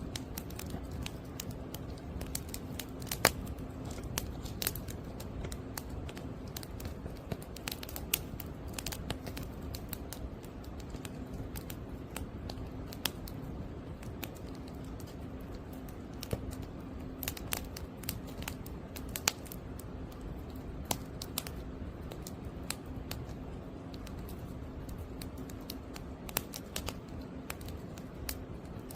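Wood fire burning, with irregular sharp crackles and pops of firewood over a steady low rumble.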